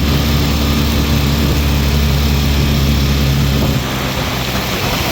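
Heavy rain pouring, with a low, steady engine-like hum beneath it that drops away a little under four seconds in.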